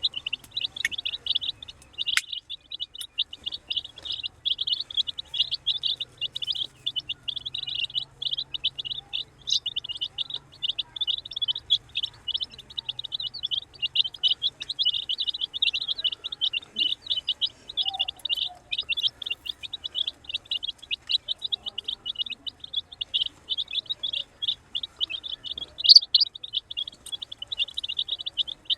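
A brood of baby chicks peeping continuously, many short high-pitched peeps overlapping in a dense chorus.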